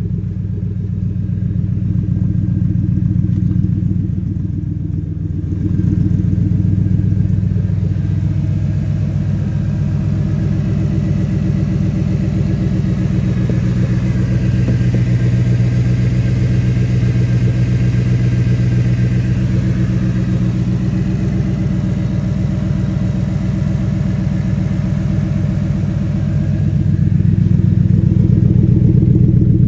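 Factory Five Racing Shelby Cobra replica's engine idling steadily after a cold start, with no revving. It gets louder near the end, heard close to the chrome side exhaust pipes.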